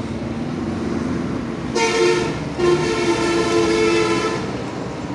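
A two-tone horn sounds twice, a short blast and then a longer one of about two seconds, over a steady background rumble.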